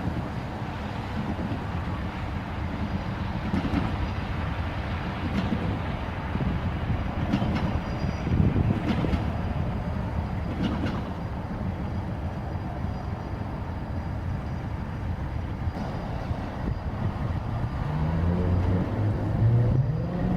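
Diesel locomotive rumbling while switching freight cars, with scattered metallic clanks. Near the end the engine's pitch rises and then holds.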